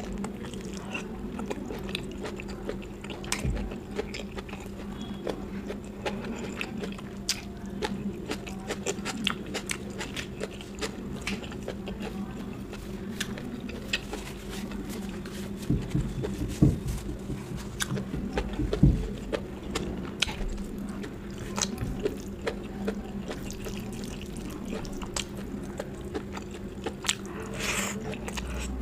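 Close-miked chewing and wet mouth sounds of a person eating curry and rice, with many small clicks and a few louder thumps around the middle, over a steady low hum.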